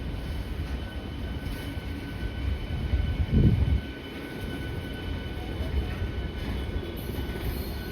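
Indian Railways electric train running on the track: a steady low rumble with a faint steady whine, and a brief louder low surge about three and a half seconds in.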